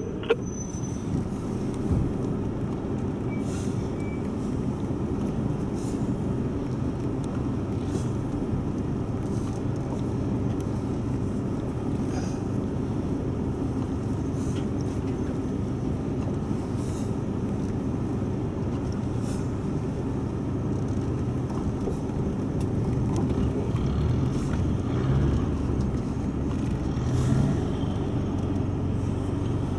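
A four-wheel drive's engine running steadily at low revs, heard from inside the cabin as it crawls over a rough dirt track, with a few light knocks from the vehicle over the bumps. The engine note rises for a few seconds near the end.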